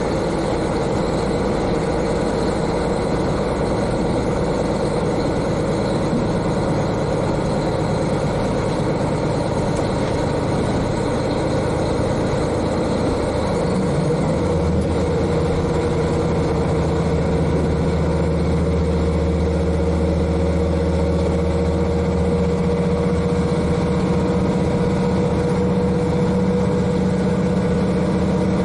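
The N-DMF13HZI diesel engine of a KiHa 40 diesel railcar, heard from directly above it inside the car, running steadily as the car travels. About halfway through, the engine note shifts and a strong, deep rumble comes in and holds.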